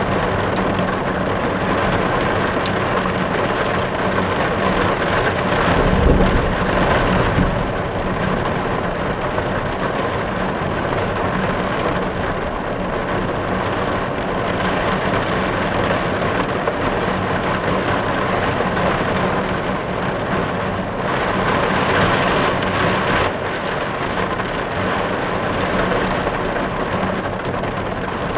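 Rain drumming steadily on a car's roof and windows, heard from inside the car. About six seconds in, a low rumble swells up briefly.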